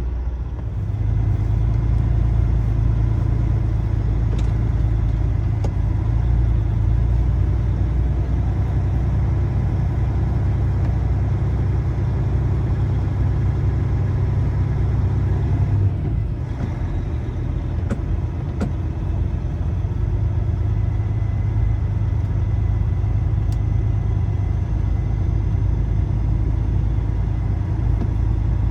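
Semi truck's diesel engine running with a steady low rumble. It dips briefly a little past halfway, then carries on.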